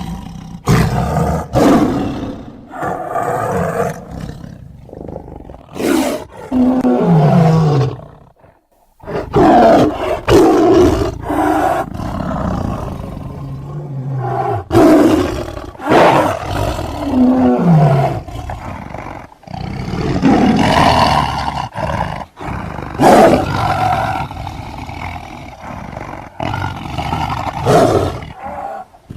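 A run of big-cat roars and snarls, tiger and sabertooth (smilodon) creature sound effects, one after another with a short break about eight seconds in. Some of the roars drop in pitch as they end.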